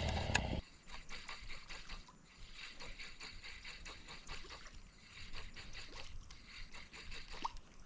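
Small water sounds lapping and trickling against a jon boat's hull: a string of faint, irregular clicks and splashes. A brief low rumble opens it and stops about half a second in.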